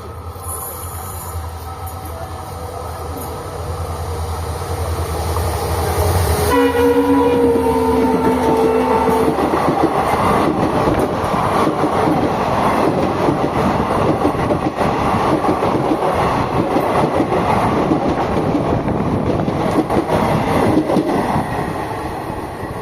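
EMD WDP-4 diesel locomotive approaching with a steady low engine throb that grows louder. About six seconds in, it sounds its horn, a multi-tone chord held for about three seconds. Then the locomotive and passenger coaches pass close by with loud wheel rumble and clatter, fading near the end.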